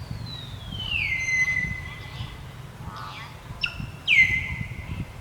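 Two long, high whistled animal calls. The first slides slowly down in pitch, then holds steady for over a second. The second, near the end and louder, drops quickly and then holds the same pitch.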